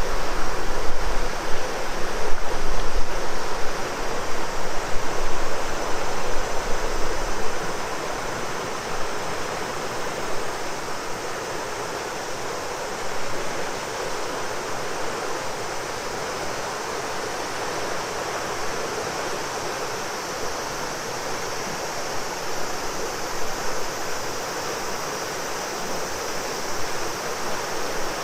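River water rushing steadily, with a faint steady high buzz of cicadas above it. For the first several seconds the rush is louder and wind rumbles low on the microphone, then it settles to an even flow.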